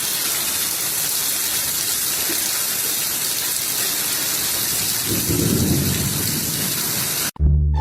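Steady, heavy rain-like noise, with a low rumble swelling about five seconds in, cutting off abruptly near the end.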